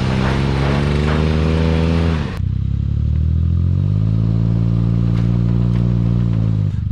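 Suzuki Jimny JB23's small three-cylinder turbo engine revving under load as it crawls over soft dirt. The engine note climbs, holds steady and then falls away, twice over.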